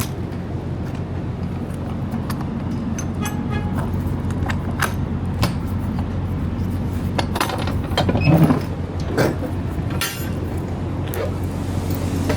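Semi-truck diesel engine idling steadily, with scattered light clicks and clinks over it, thickest about eight seconds in.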